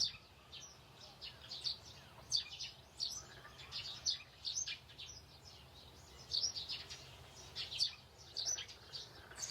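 Small birds chirping: short, high chirps come irregularly, several a second at times, with brief gaps.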